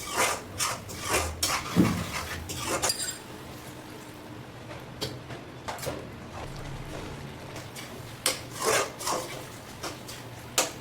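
Kitchen utensils clinking and scraping against cookware. There is a cluster of knocks in the first three seconds and more about eight to nine seconds in, with a low steady hum between.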